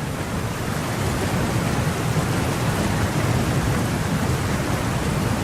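Heavy rainstorm: a loud, steady rushing noise of rain and wind, with a dense low rumble underneath.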